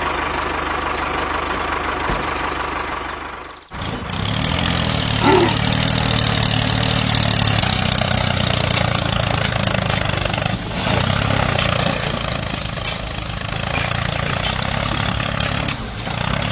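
Small engine of a DIY mini tractor running steadily. It drops away sharply about three and a half seconds in, then runs on with an even low hum.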